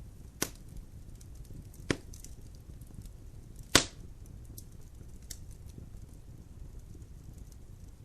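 Logs burning in a fireplace, crackling: three loud sharp pops in the first four seconds, the last the loudest, with faint small ticks over a low steady rumble.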